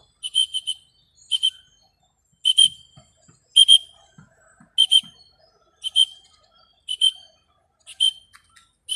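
A whistle blown in short blasts about once a second, some doubled, as a recall signal to call a young Javan myna back.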